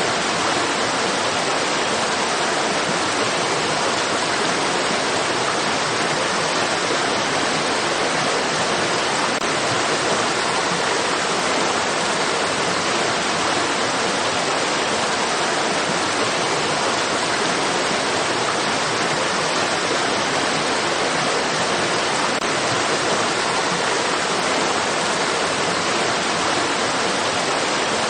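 Running water of a stream: a steady, even rush with no breaks or changes.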